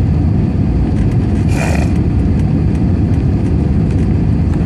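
Steady, loud rumbling cabin noise of an aircraft in flight, with a brief higher-pitched sound about a second and a half in.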